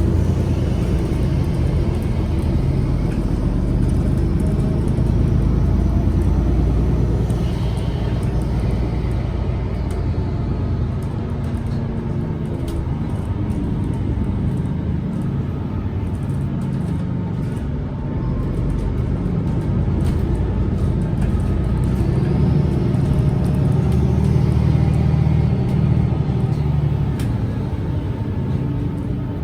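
Interior of a MAN Lion's City G articulated city bus on the move: engine and drivetrain running under a steady low rumble, the pitch rising and falling slowly with speed.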